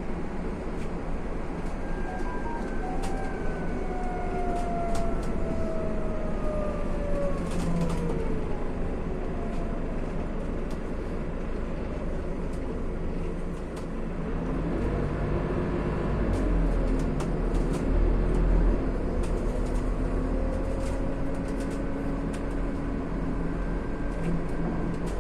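Interior sound of a Scania CN280UB city bus on the move: the diesel engine and driveline run steadily, their whine falling in pitch as the bus slows in the first seconds, then growing louder and rising again as it pulls away about halfway through. Light rattles and clicks from the bus body come and go throughout.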